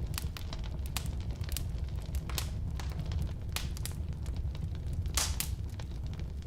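Firewood burning in a fireplace, crackling and popping irregularly over a steady low rumble of the flames; a louder cluster of pops comes about five seconds in.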